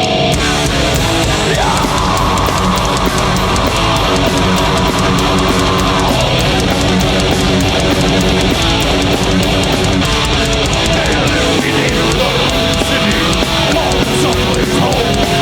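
Live heavy metal band playing at full volume, led by distorted electric guitars.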